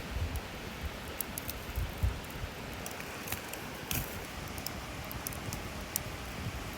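Wood campfire crackling: scattered sharp pops and snaps over a steady hiss, with a few low knocks in the first couple of seconds.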